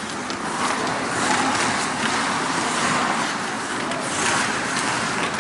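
Ice hockey game noise in a rink: a steady wash of skates scraping on ice and play, swelling a few times.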